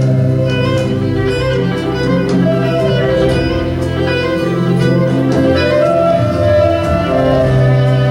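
Instrumental music: a fiddle melody of held notes over a steady low accompaniment.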